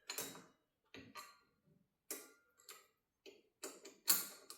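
Light metallic clicks and taps, about eight of them at uneven intervals, the loudest about four seconds in, from hardware being handled and fitted on a garage door torsion spring shaft as the cable drum is lined up for tightening.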